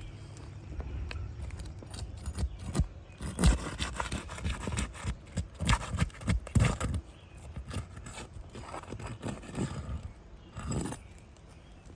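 Roof snake pry bar worked under an asphalt shingle to break its adhesive seal: a run of irregular knocks, clicks and scrapes, loudest in the middle, then lighter scraping with a last short cluster near the end.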